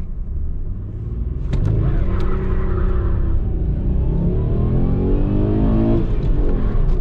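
Ford Probe's 2.5-litre V6 accelerating hard from a standstill. The engine gets louder about a second and a half in, climbs in pitch, drops at a gear change about six seconds in, then starts climbing again.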